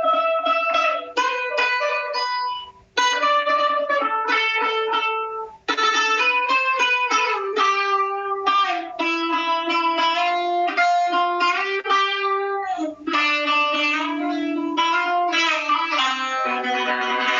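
Two-string buzuq, a long-necked fretted lute, played solo: a melody of single plucked notes with sliding pitch bends, broken by short pauses about three seconds in and again near six seconds.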